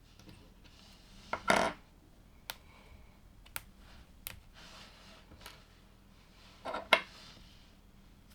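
LEGO plastic pieces being handled: a short rattle of loose parts about one and a half seconds in and again near seven seconds, with single sharp clicks of plastic pieces in between.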